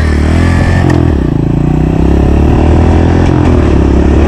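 Honda CRF125 pit bike's single-cylinder four-stroke engine running while being ridden. Its revs drop off in the first second, then hold fairly steady.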